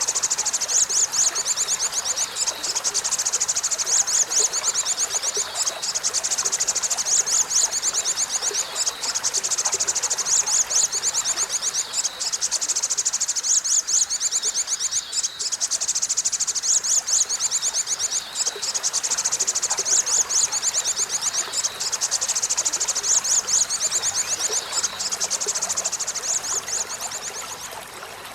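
Olive-backed sunbird (sriganti) singing a long, fast, high-pitched trill of rapidly repeated notes, with only brief breaks, over the steady trickle of a stream; the song stops near the end.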